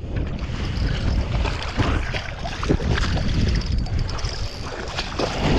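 Water splashing and sloshing in shallow floodwater around a thrashing, snagged carp, under a steady low rumble of wind on the microphone.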